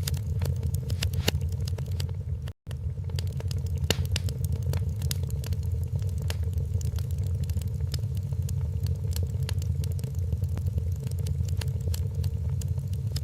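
Wood fire crackling in a fireplace: frequent sharp pops and snaps over a steady low rumble. The sound cuts out for an instant about two and a half seconds in.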